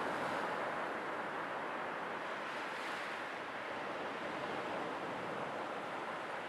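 Sea waves: a steady rush of surf, swelling slightly near the start and again about three seconds in.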